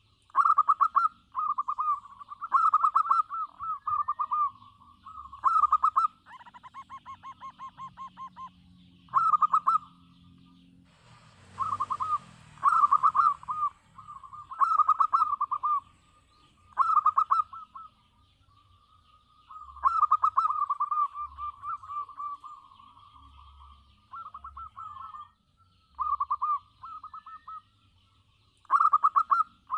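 Zebra dove (perkutut) cooing: short phrases of rapid rolling coo notes, repeated every second or two with short pauses between. A brief noisy rustle comes about eleven seconds in.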